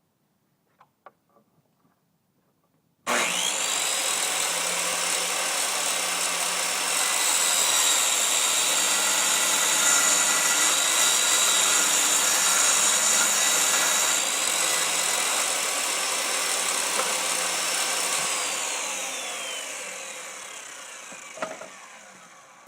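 Circular saw mounted under a table as a homemade table saw, switched on about three seconds in and running with a steady high whine while it cuts through a board, which goes "pretty easy". Near the end it is switched off and winds down, its whine falling in pitch and fading.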